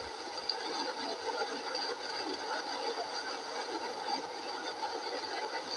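Steady road and running noise inside a moving vehicle, an even rumble and hiss with no sharp events.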